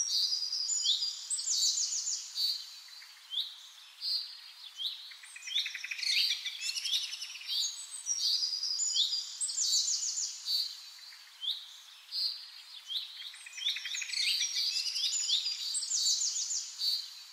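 Birds chirping and trilling: many short, high chirps and rapid trills overlap in busy bouts, with single chirps in between.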